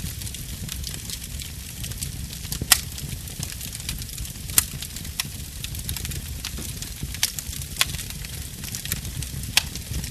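Burning wood crackling with irregular sharp pops, a few of them louder snaps spread through the stretch, over a steady low rumble from the fire.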